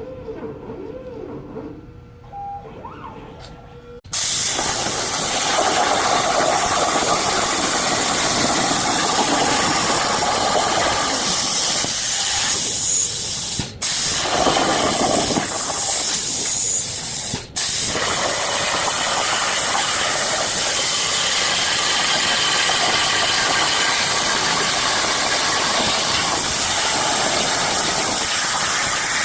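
CNC plasma cutter torch cutting: a loud, steady hiss that starts abruptly about four seconds in after quieter machine sounds, and cuts out briefly twice around the middle.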